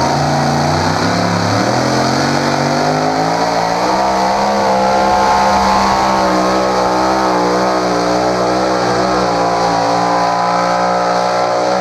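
Pulling vehicle's engine at full throttle under load during a pull. It climbs in pitch in steps over the first few seconds, then holds at high revs with a wavering pitch.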